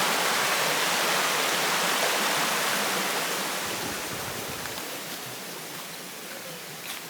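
Steady rush of running and falling water, fading gradually over the second half.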